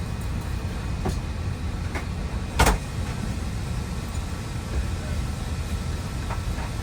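Steady low rumble of an airliner cabin in flight, with one sharp knock about two and a half seconds in.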